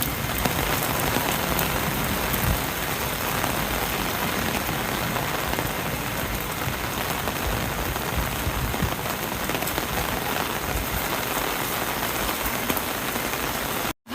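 Heavy rain pouring steadily, with a short break in the sound near the end.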